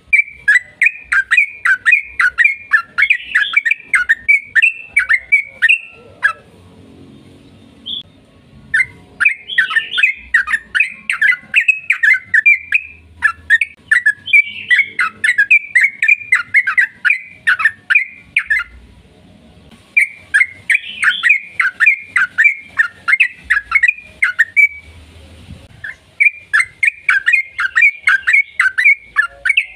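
Yellow-vented bulbul (trucukan) singing long, fast chattering phrases of rapid sharp notes, each run lasting several seconds with short pauses between.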